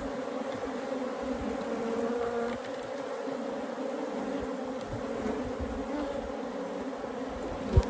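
A mass of Africanized honey bees buzzing, a steady dense hum from the many bees in the air. A single knock comes near the end.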